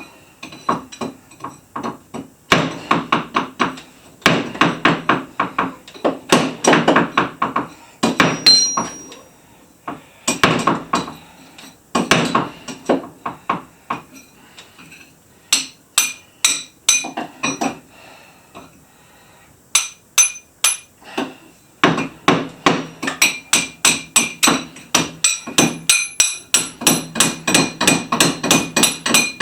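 Hammer striking a steel chisel into a rock concretion in runs of quick taps, several a second, with short pauses between runs. The later runs are faster and carry a light metallic ring.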